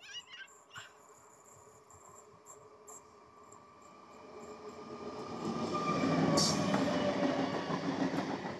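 Electric multiple-unit suburban train approaching and passing close by. The wheel-on-rail rumble swells from about four seconds in and stays loud as the coaches go past, with a brief sharp high squeal in the middle.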